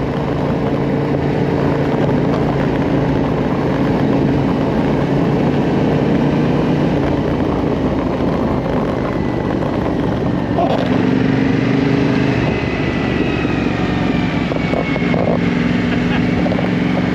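Yamaha Ténéré 700 motorcycle engine running steadily while riding, with wind rush; the engine note shifts about eleven seconds in.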